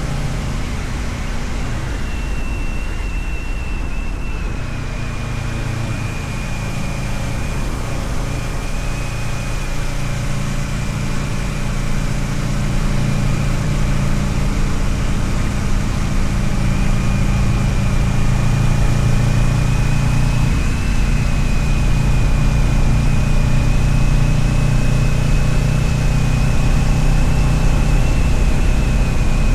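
Kawasaki Ninja 650R's parallel-twin engine running steadily while riding, with a thin high whine joining about two seconds in; the sound grows gradually louder through the second half.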